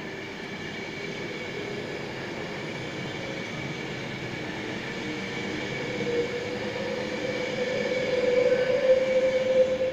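Class 60 diesel-electric freight locomotive with its Mirrlees eight-cylinder engine running as it approaches hauling a loaded biomass train, the sound steadily growing louder. In the second half a steady whine grows stronger and rises slightly in pitch.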